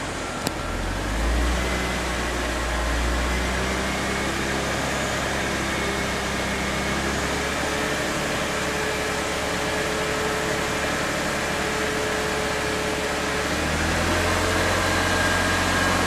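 BMW E46 running before it has warmed up, a steady mechanical noise with a low hum. The owner's faint, unidentified mystery noise is said to be slightly audible in it.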